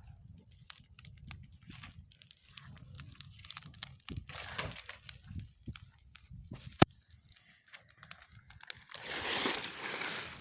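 Paper and plastic rubbish crackling and crinkling in scattered irregular clicks, with one sharp snap about seven seconds in and a burst of hiss near the end.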